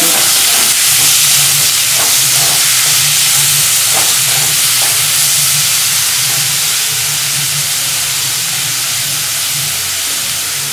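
Sliced onions, garlic and tomato sizzling in hot mustard oil in a metal kadai, a steady frying hiss, with a spatula stirring and scraping a few times.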